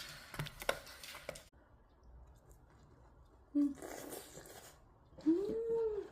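Eating sounds: sharp crunching and chewing clicks in the first second and a half. Then two short pitched vocal sounds, the second rising and falling over most of a second; these are the loudest things.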